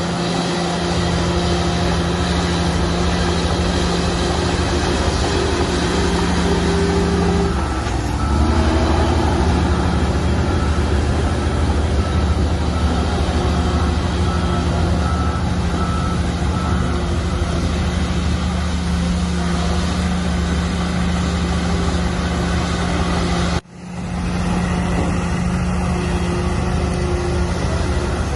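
Shantui bulldozer's diesel engine running steadily under work. Its note shifts lower and heavier about eight seconds in. An evenly repeating high beep sounds for a few seconds in the middle, and the sound cuts out abruptly for a moment near the end.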